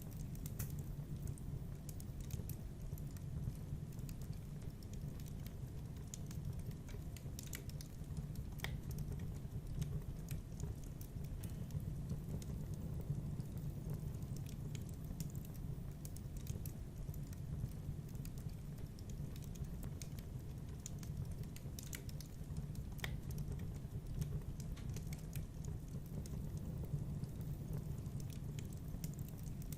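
Wood fire burning in a fireplace: a steady low rumble with irregular crackles and sharp pops from the burning logs.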